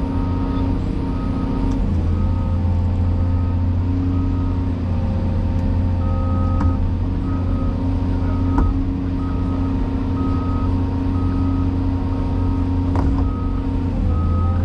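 Cat 336E excavator's diesel engine running steadily under a repeating back-up alarm that beeps about twice a second, with a short pause about halfway through.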